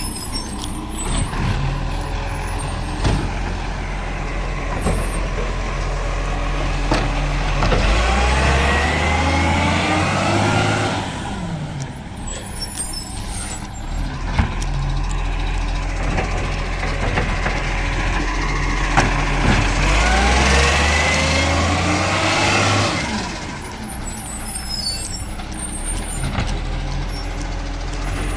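Garbage truck engine running, its pitch rising twice as it revs up, with short air-brake hisses in between.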